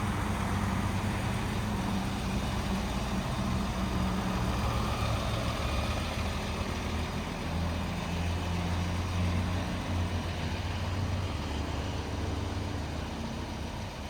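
Semi truck's diesel engine running steadily, a low hum.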